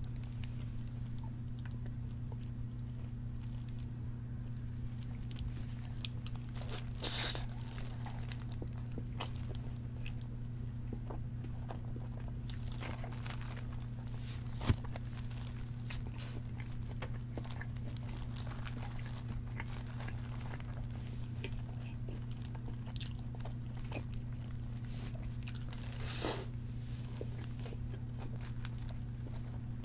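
Close-miked biting and chewing of crispy fried chicken: the fried coating crunching and crackling in scattered bites, with one sharp click near the middle. A steady low hum runs underneath.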